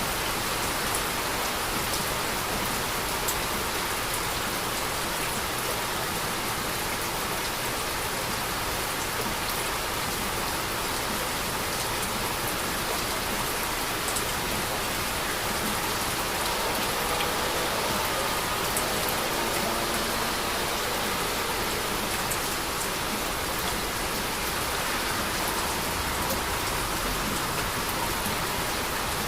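Steady heavy rain falling, an even hiss with scattered drops ticking on a surface.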